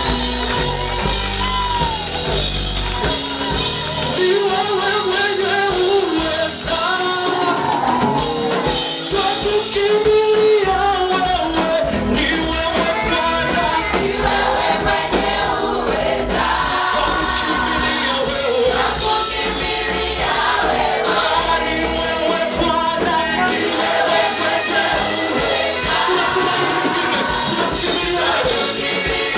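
A vocal group singing a gospel praise song with musical accompaniment, the voices held and moving throughout.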